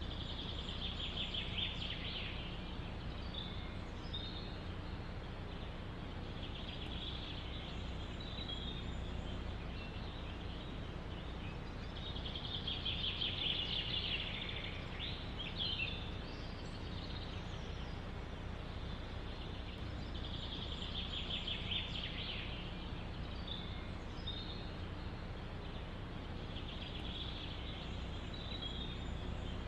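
A songbird repeats a short, rapid trilled phrase of about two seconds five times, roughly every six to seven seconds, with a few single chirps between phrases. Underneath is a steady low background rumble of forest ambience.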